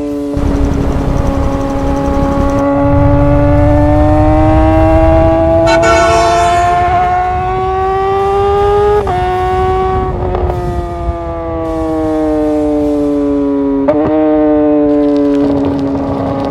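Motorcycle engine running at high revs with a steady whine. Its pitch slowly climbs, then drops sharply about nine seconds in, and drops again near fourteen seconds.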